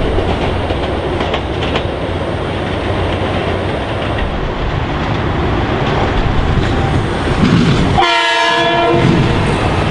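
Metro-North electric commuter train running loud and steady at a station. About eight seconds in, a train horn gives one short blast.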